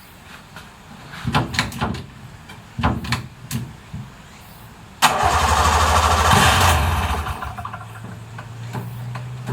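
Subaru R-2's 360cc two-stroke engine being cranked on the starter in two short spells, then catching suddenly about five seconds in, running loud for a couple of seconds and settling into a steady idle.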